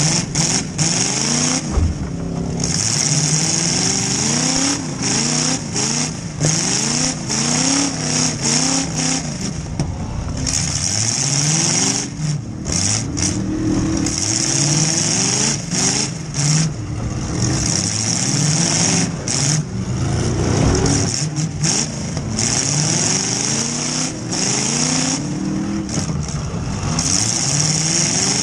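Demolition derby car's engine revving up and falling back again and again as it accelerates and reverses, heard from inside the gutted cabin.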